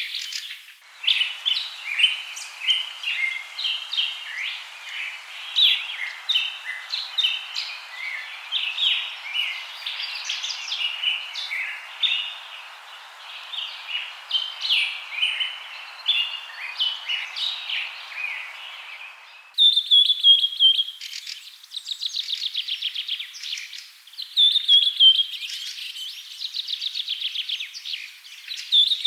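A dense chorus of many birds chirping and calling over a steady hiss. About two-thirds of the way in it cuts to a bird repeating a fast trill in bursts of a few seconds.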